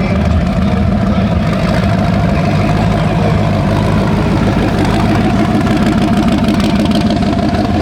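A car engine idling, loud and steady.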